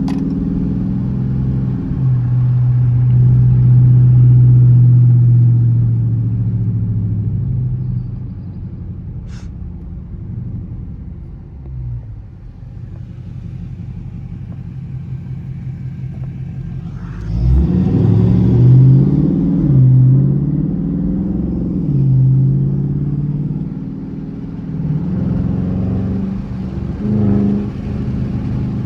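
Dodge Charger R/T's V8 engine driving: a steady pull for the first several seconds, easing to a quieter cruise, then a sudden hard acceleration about seventeen seconds in, its pitch rising and dropping a few times through the gears before settling.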